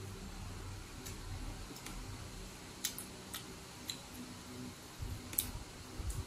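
Close-up chewing and lip-smacking while eating ripe mango slices: scattered wet mouth clicks, with a couple of soft low thumps near the end.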